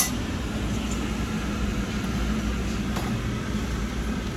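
Steady hum and hiss of restaurant room noise, like a ventilation fan running, with a sharp click right at the start and a fainter click about three seconds in.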